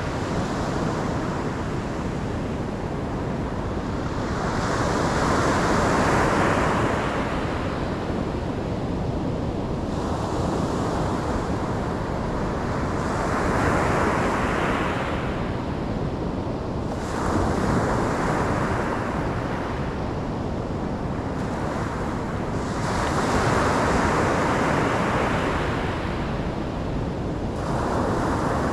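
Ocean waves breaking on a shore, a continuous surf rush that swells and falls back about every four to five seconds.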